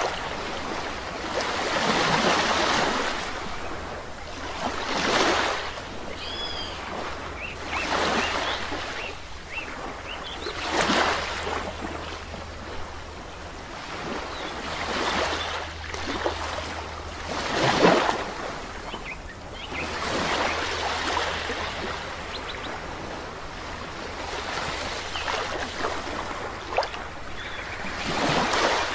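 Small sea waves breaking and washing up on a shore, one swell every two to four seconds, with a faint bird chirping briefly about six seconds in.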